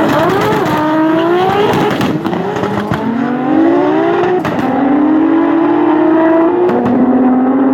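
A race vehicle's engine accelerating hard through the gears. Its pitch climbs and then drops sharply at each of three upshifts.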